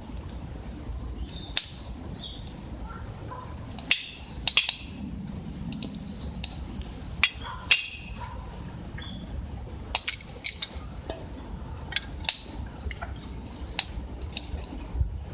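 Wood burning in a camp stove, crackling with irregular sharp pops and snaps over a low background rumble.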